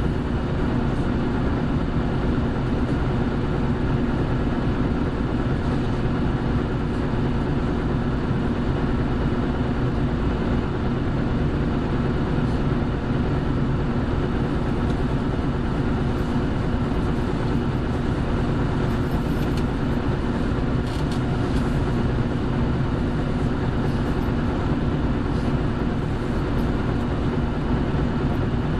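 Engine of a Hino Blue Ribbon City Hybrid city bus (HU8JLFP) running steadily at an even pitch, heard from inside the passenger cabin.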